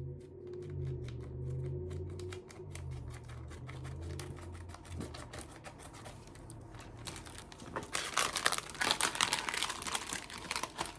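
Scissors snipping open a plastic foot-peel bootie, a run of small sharp clicks, then from about eight seconds the plastic crinkling louder as it is handled.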